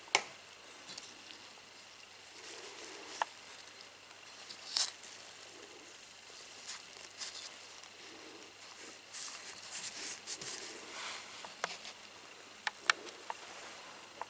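Scattered light clicks and knocks with short rustles, over a faint steady hum.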